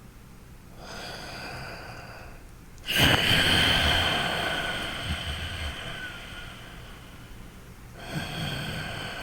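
Deliberate, loud breathing through the nose during a relaxation exercise. A softer breath comes about a second in. A loud breath starts sharply about three seconds in and fades over several seconds. Another breath starts near the end. The breaths carry a faint steady whistle.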